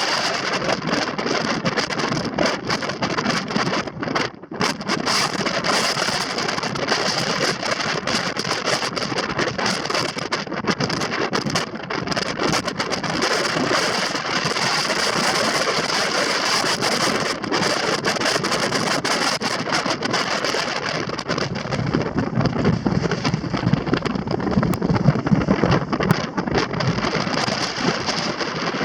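Gale-force mountain wind buffeting the microphone: a loud, continuous rushing noise that rises and falls in gusts, easing briefly about four seconds in and buffeting harder near the end.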